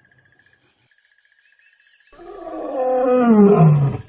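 A lion roaring once: one loud, drawn-out roar that starts about two seconds in, swells and drops in pitch. Faint rapid chirping runs underneath.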